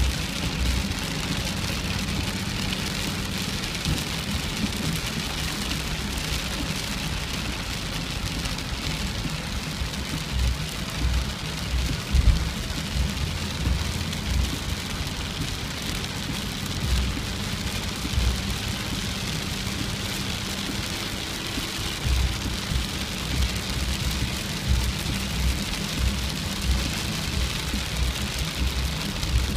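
Steady rain falling, with irregular low rumbles underneath.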